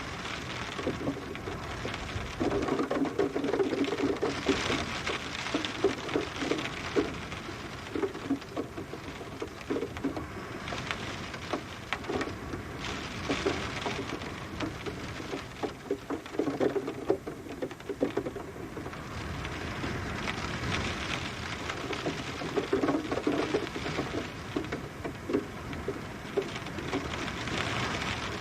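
Steady rain, with many close individual drops pattering over a continuous hiss; it swells and eases in waves.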